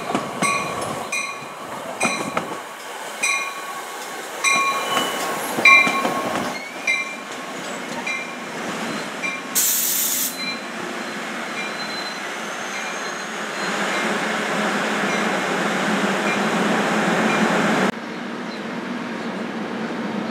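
New Jersey Transit commuter train arriving at a station: a bell rings about twice a second for the first seven seconds, a short hiss of air comes about ten seconds in, and the rumble and wheel noise of the cars passing close grow louder, then drop suddenly near the end.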